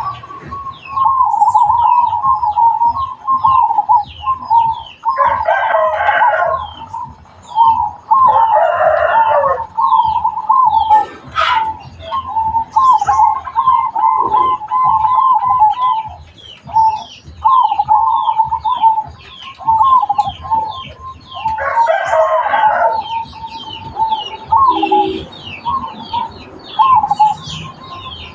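Zebra doves (perkutut) cooing in quick, repeated phrases, with rapid high chirps from other small birds behind them. Three times a rooster crows over the cooing.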